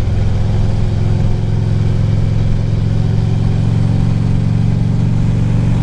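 Harley-Davidson V-twin engine of a touring motorcycle running steadily under way, its note holding an even pitch while cruising.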